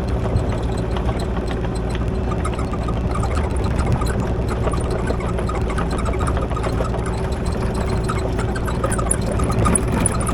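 Kubota KX040 mini excavator's diesel engine running steadily, with a constant tone held over the engine note and scattered small clanks and rattles.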